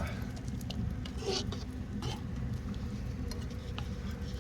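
Pot of rice-cake soup bubbling on a wood stove, with faint scattered ticks and a brief rush of sound about a second in, over a steady low rumble.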